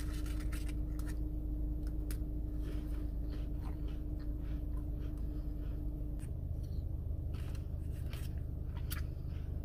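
A person chewing a cracker topped with tuna salad, with scattered small crunches and clicks and the crinkle of a paper sample cup, over a steady low hum. A faint steady tone in the hum stops about six seconds in.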